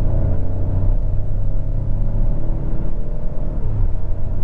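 Opel Corsa F's 1.2 three-cylinder petrol engine pulling under acceleration, its note rising, then dropping back about three and a half seconds in as the 8-speed automatic shifts up smoothly before rising again.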